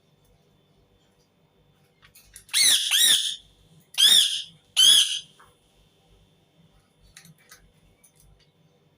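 Indian ringneck parakeet (rose-ringed parakeet) screeching: four loud, harsh calls in quick succession from about two and a half to five seconds in. Each call rises and falls in pitch.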